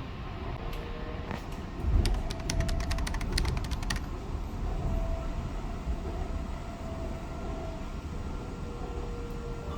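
Steady low vehicle rumble, with a quick run of sharp clicks from about two to four seconds in.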